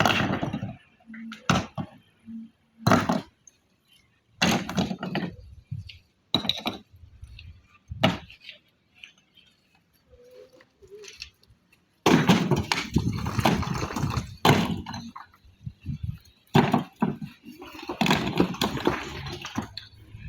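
Irregular sharp knocks of hard objects, then longer stretches of dense clattering and scraping in the second half.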